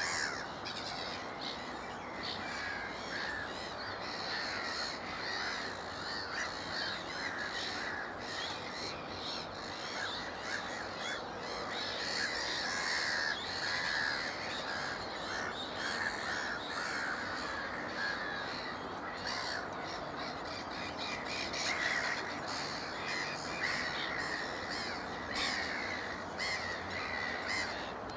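Black-headed gull colony calling: many harsh, overlapping calls at once, forming a continuous din with no break.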